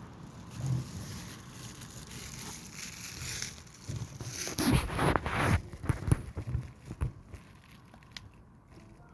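Wind buffeting the microphone in uneven gusts with rumble and crackle, strongest around the middle and dying down near the end.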